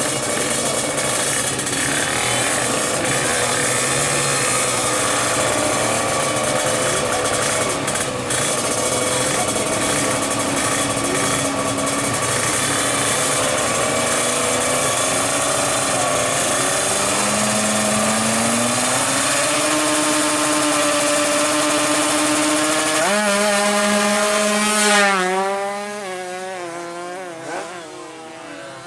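Two-stroke 155 cc drag bike engine revving, its pitch rising and falling. About 23 seconds in it revs up sharply, then fades while its pitch keeps climbing, as the bike pulls away.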